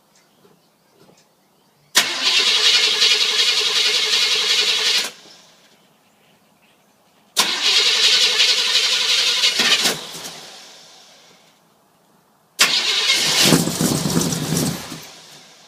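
Chevy Suburban's engine cranked over by the starter on a cold start: three cranking attempts of about two and a half to three seconds each, starting and stopping abruptly. The third attempt brings a deeper rumble before it fades out.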